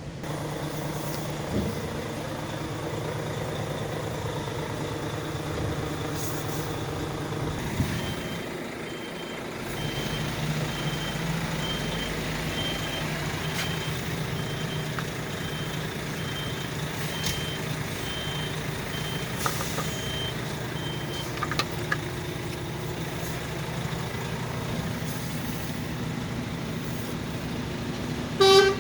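Scania R tractor unit's diesel engine running steadily while its reversing alarm beeps at an even pace of about one and a half beeps a second for roughly thirteen seconds, then stops. Near the end comes a short, loud pitched blast.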